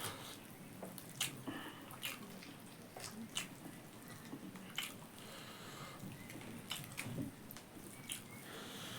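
Close-up eating sounds: chewing with wet mouth clicks and smacks at irregular intervals.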